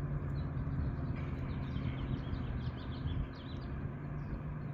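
Small birds chirping and twittering over a steady low mechanical hum, which eases off slightly about three seconds in.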